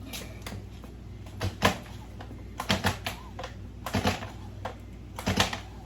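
Stihl MS 170 chainsaw's recoil pull-starter yanked about four times, each pull a short double clatter roughly every second and a half; the engine does not fire.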